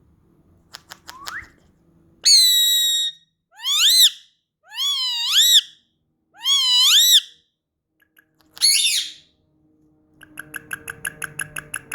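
Indian ringneck parakeet calling loudly: a held harsh squawk about two seconds in, then four up-and-down whistled calls about a second apart, and near the end a quick run of short chirps.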